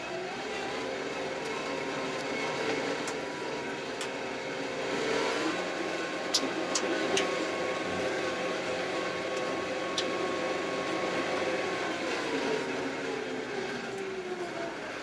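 Kioti RX7320 tractor's diesel engine running while plowing snow. Its pitch rises about five seconds in, holds, and eases back down near the end, with a few light clicks.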